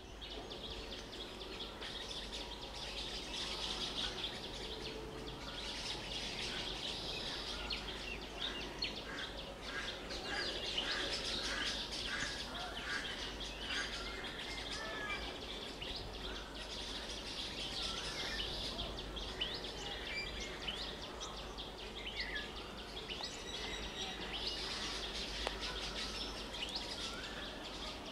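Many birds chirping and calling over steady outdoor background noise with a constant low hum.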